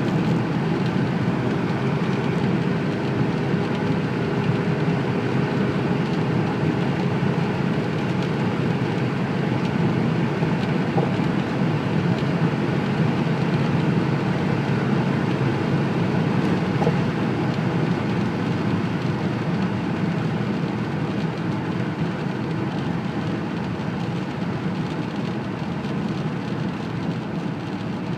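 2014 Audi Q5 2.0 TDI four-cylinder turbodiesel driving at high speed: steady engine drone under heavy road and wind noise, easing off gradually over the last ten seconds or so.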